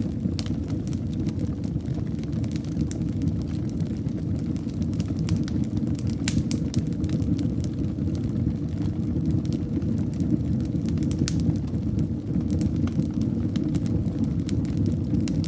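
Wood fire burning in a fireplace: a steady low rumble of flames with frequent sharp crackles and pops, one of them louder about six seconds in.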